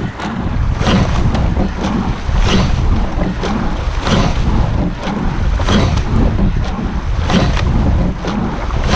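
A rowing crew racing flat out on its final strokes: heavy wind buffeting the microphone over the rush of the boat, with a sharp clunk-and-splash about every second and a half as each stroke is taken.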